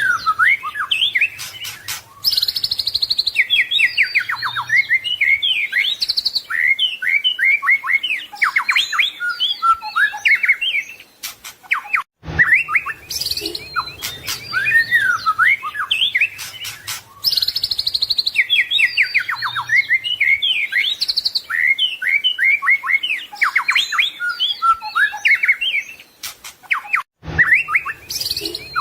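White-rumped shama (murai batu) singing a long, varied song of rapid whistles, trills and rattles, packed with phrases mimicked from other birds. The same passage repeats about every fifteen seconds, with a brief break about twelve seconds in and again near the end.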